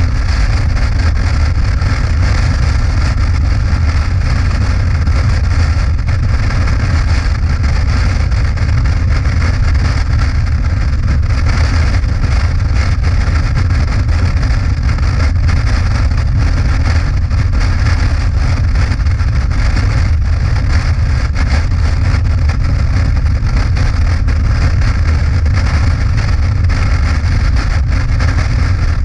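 Motorcycle engine running steadily at cruising speed, with a deep rumble and a constant rush of road noise.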